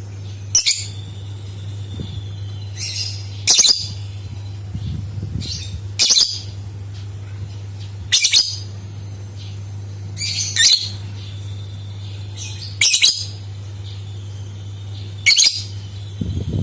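Lovebird giving short, shrill squawks about every two and a half seconds, seven in all, with a few fainter chirps between them, over a steady low hum.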